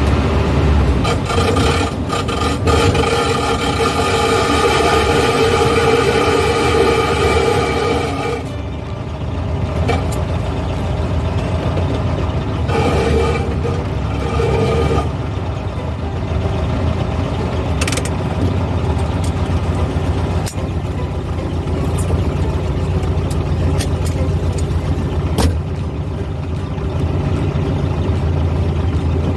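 A 1970s Volkswagen driving, heard from inside the car: engine and road noise. A strong steady tone from the engine under load holds for the first eight seconds or so and returns briefly around the middle, then the car runs more quietly with a few sharp clicks.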